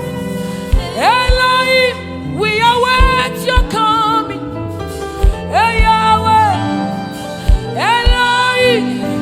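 Live gospel worship band music with a steady kick-drum beat and long sustained melodic lines that swell into each held note, with no words sung.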